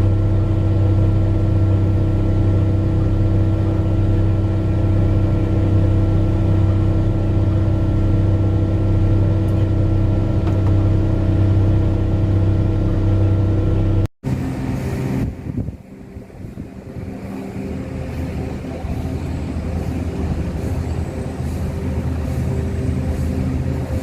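Large mining haul truck's diesel engine running with a steady deep hum. About fourteen seconds in, the sound cuts abruptly to a different, quieter engine sound that gradually grows louder.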